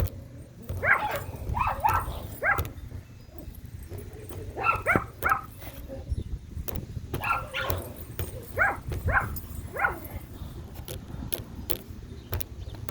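A dog barking and yipping in short bouts, about ten calls over the first ten seconds, followed by a few sharp ticks near the end.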